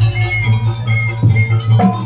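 Live jaranan music played by the troupe's ensemble: drums and metal percussion over a steady low tone, with a few short high-pitched notes.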